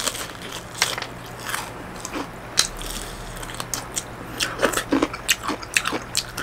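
Close-up eating sounds: crisp, crackly crunches as a mouthful of crispy-crusted fried chicken is bitten and chewed, with the crunches coming thickest about four and a half to six seconds in.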